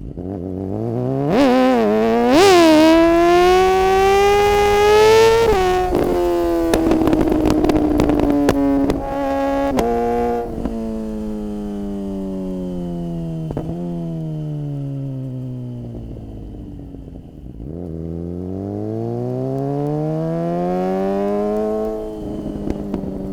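Suzuki GSX-R600 inline-four sport bike engine accelerating hard, its revs climbing and snapping down twice in quick succession as the quickshifter makes clutchless upshifts, then holding high. As the throttle closes the revs fall with a run of sharp crackles, then the engine pulls up through the revs again and drops off near the end.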